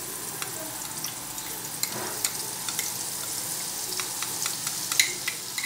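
Spice masala paste frying in hot oil in a pan: a steady sizzle, with sharp clicks of a spoon stirring against the pan that get louder near the end.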